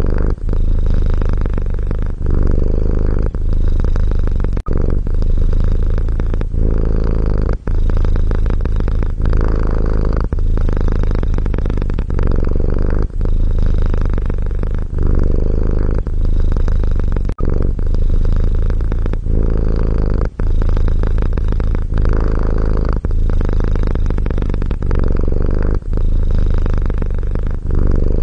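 Domestic cat purring steadily, a low continuous rumble broken by brief dips about every second as the purr switches between breathing in and out.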